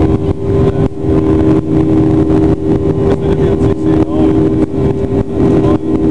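Boeing 737-800's CFM56 jet engines running at high thrust, heard inside the cabin: a loud steady rumble with a constant droning tone over it.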